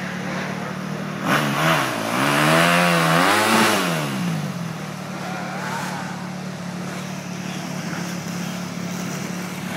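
Dirt bike engines running steadily, with a stretch of revving that rises and falls in pitch from about a second in until nearly five seconds, the loudest part, before settling back.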